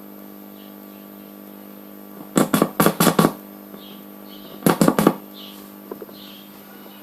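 Two quick runs of sharp knocks, about five and then about four, a second or so apart, over a steady hum, with faint bird chirps.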